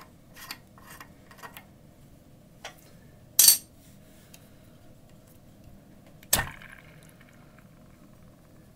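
Faucet parts and tools being handled during disassembly: a few light clicks, a brief louder rattle about three and a half seconds in, and a sharp metal knock with a short ring a little after six seconds.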